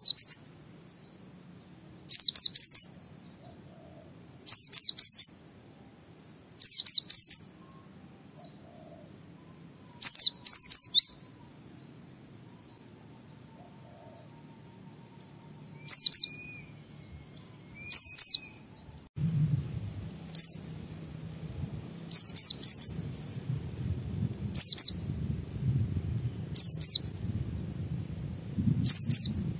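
Pleci (white-eye) singing in ngalas style: short, loud, high-pitched phrases of rapid falling notes, repeated about every two seconds. A low background rumble comes in about two-thirds of the way through.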